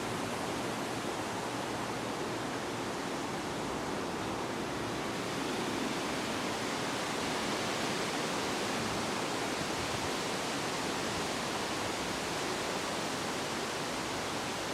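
Steady rushing wind, an even noise with no gusts or breaks.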